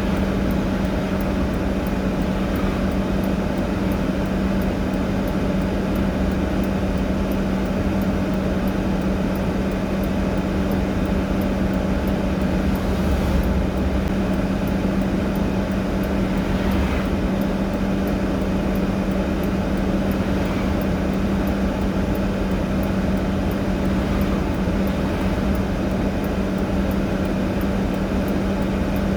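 A vehicle engine idling, a steady unchanging hum with a faint regular ticking over it.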